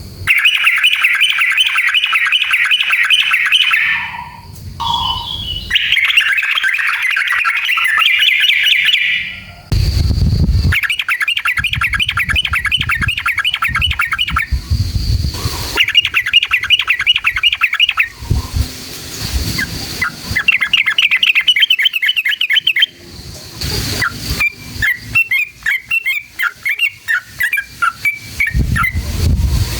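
Yellow-vented bulbul (trucukan) singing in long, fast chattering trills, the rolling 'ropel' song. The trills come in several runs of a few seconds each, with short breaks between them and low rumbles under some of them.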